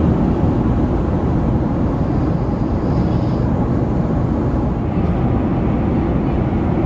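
Steady cabin noise of an Airbus A380 in flight: an even, unchanging low rush of airflow and engine noise.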